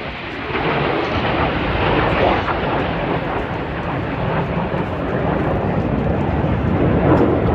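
Red Arrows BAE Hawk T1 jets flying the display, their jet engines making a steady, dense noise that swells a little about two seconds in and again near the end.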